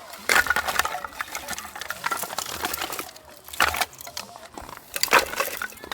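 Four short bursts of clinking and clattering, hard objects knocking together, about one and a half seconds apart.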